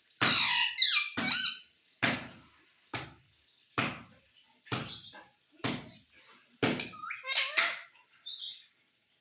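Pet parrot squawking and calling in high, bending notes at the start and again about seven seconds in. Between the calls come sharp knocks or taps, about one a second.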